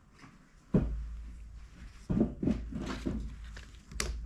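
A few knocks and clunks of engine parts or tools being handled on a workbench, with a sharp click near the end, over a low rumble that starts with the first knock.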